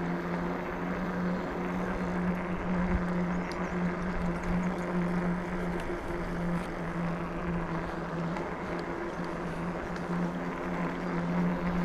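Electric bike being ridden along: a steady motor hum holding one even pitch, over a rush of tyre and wind noise.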